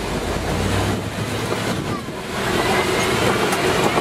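Open safari ride truck driving: a steady engine and road rumble with wind on the microphone, getting louder a little past two seconds in.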